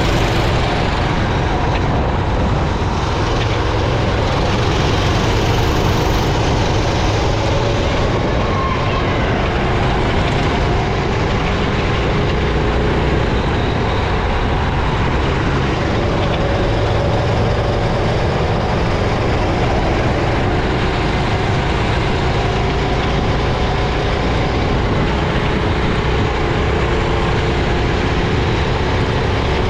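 Racing kart engine running hard, heard on board, a loud, steady drone whose pitch slowly rises and falls with the throttle.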